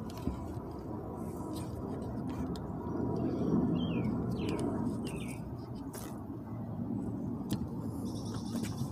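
A low, steady outdoor rumble with two short falling bird chirps about three and a half and five seconds in, and a few faint clicks.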